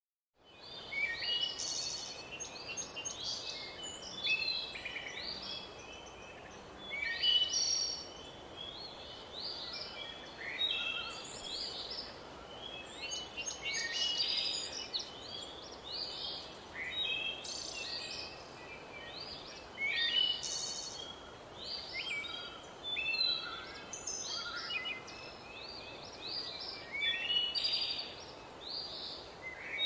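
Several birds singing at once, a steady stream of overlapping chirps and short high trills, over a faint steady hiss.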